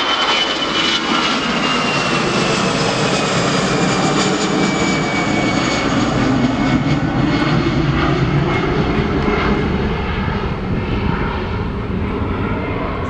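Jet airliner passing close by, its engines running loud with a high whine that slides slowly down in pitch as it goes past, starting to fade near the end.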